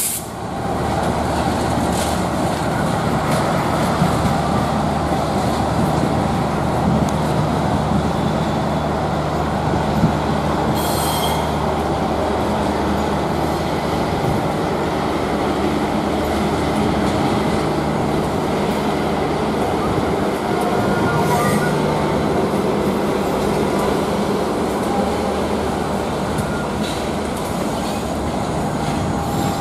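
Train of passenger coaches being shunted backwards past, with a diesel locomotive running and the wheels rolling on the rails. Two brief high squeals come about a third and two-thirds of the way through.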